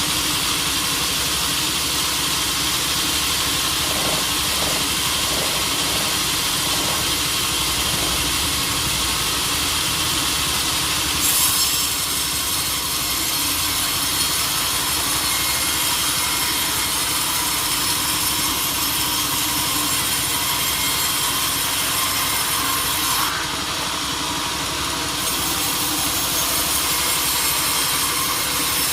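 Sawmill blade cutting through a large teak log: a steady, continuous sawing noise that briefly loses some of its hiss about three-quarters of the way through.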